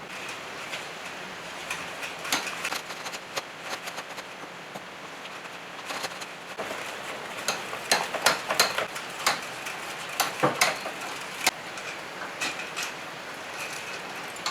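Irregular light clicks and knocks from hand tools and metal parts being handled during work on an electric motor, over a steady hiss, coming thickest about halfway through.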